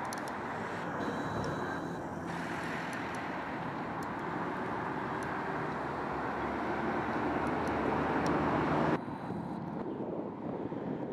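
Steady outdoor background noise, an even hiss and rumble that swells slightly and then drops off abruptly about nine seconds in.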